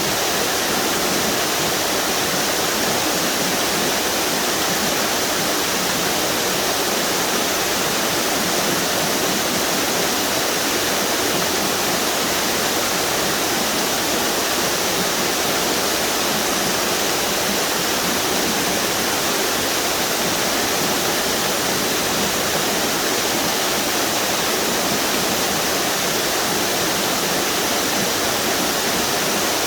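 River water pouring over a string of small waterfalls, a steady, even rush with no change in level.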